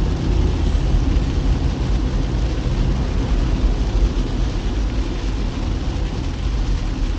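A vehicle driving on a wet road: steady engine and tyre noise with a deep rumble, unchanging throughout.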